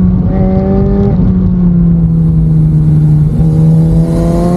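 Suzuki GSX-R1000 K8's inline-four engine running under way, its pitch dipping slightly about a second in and again just past three seconds, then climbing steadily as the bike accelerates.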